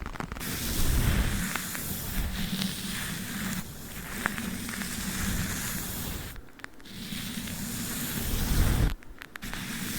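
Tape and a brush rubbed against a microphone: a close, scratchy rustling that breaks off briefly twice, a little after halfway and near the end.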